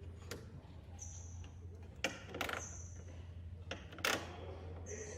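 Truck assembly-hall background: a steady low hum with four short metallic knocks and clicks, some followed by a brief high ring.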